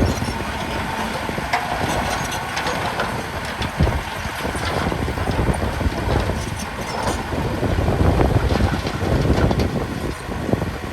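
Heavy diesel earthmoving machinery running, with scattered clanks and knocks over the engine; it grows louder about eight seconds in.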